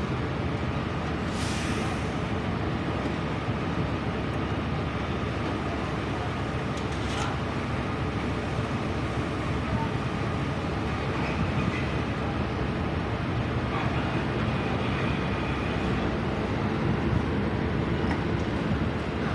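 Steady rumble of a heavy vehicle running, engine and road noise, with a few faint clicks and knocks.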